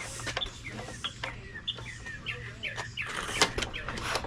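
Small birds chirping in short, repeated calls, with a few sharp clicks or knocks among them, the loudest a little over three seconds in, over a faint steady low hum.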